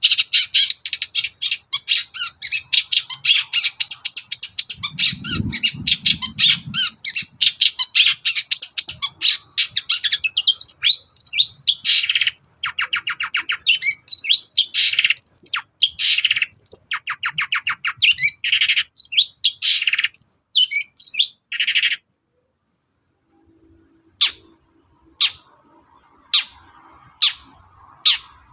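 Long-tailed shrike (cendet) singing: a fast, scratchy chatter for about ten seconds, then varied sharp calls and phrases. It breaks off suddenly partway through, and a few short, separate calls follow near the end.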